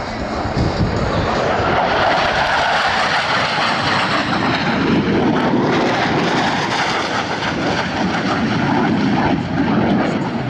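Jet noise from Blue Angels F/A-18 Super Hornets in flight: a loud, steady rush of engine noise that swells gently.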